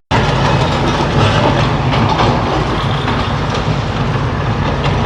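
Heavy demolition machinery working: a diesel engine running steadily under frequent knocks and crunches as a building is broken down.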